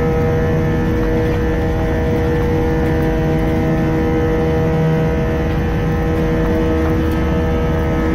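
Airliner engines running steadily, heard inside the passenger cabin in flight: a low rumble under a steady drone with several constant hum tones.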